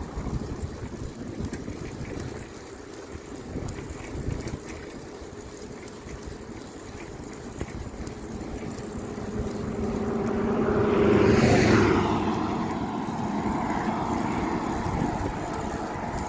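Wind rumbling on the microphone, then a motor vehicle passing close: its engine and tyre noise builds over a few seconds, peaks about two thirds of the way in, and fades away.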